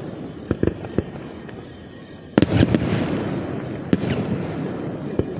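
Fireworks display: a string of sharp aerial shell bangs, with a loud burst about two and a half seconds in followed by rolling rumble and crackle.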